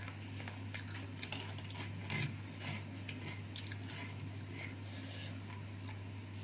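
A person chewing and biting food, with small crunches and wet mouth clicks at irregular moments, over a steady low electrical hum.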